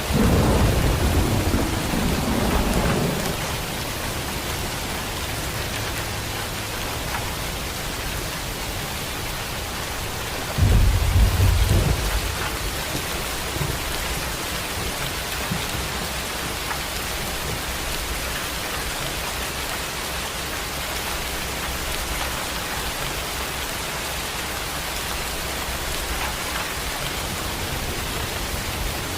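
Heavy rain falling steadily in a thunderstorm, with a low rumble of thunder at the start and a shorter, louder one about ten seconds in.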